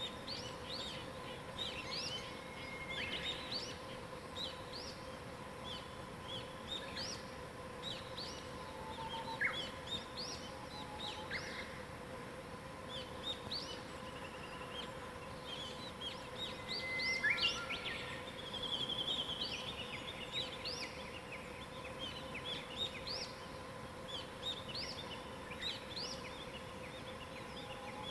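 Wild songbirds singing in a morning chorus: many quick, rising chirps overlapping throughout, with a rapid trill about two-thirds of the way in. A faint steady hum runs underneath.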